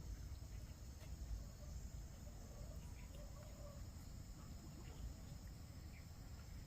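Faint, steady insect chorus, likely crickets, over a low rumble.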